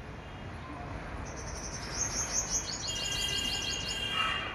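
Small birds singing: a fast run of high, repeated chirps starting about a second in, joined in the last second and a half by steadier held whistled notes.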